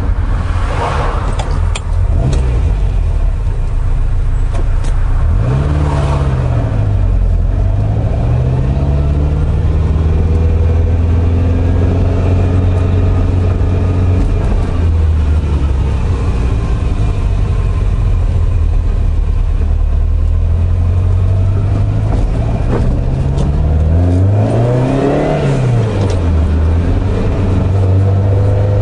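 Ferrari 308 GT4's V8 engine heard from inside the cabin while driving, running with a steady low hum. The revs climb and fall back twice, about six seconds in and again about twenty-four seconds in.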